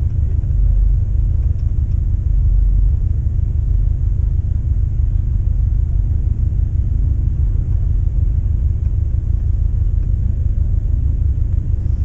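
Steady low rumble of a car on the move, road and engine noise with no changes in pace.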